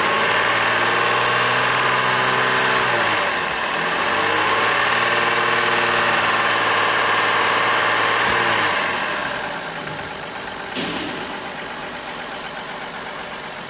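2005 Chevrolet Trailblazer's 4.2-litre inline-six engine revved and held at raised speed twice, with a brief dip between, then dropping back to a steady idle.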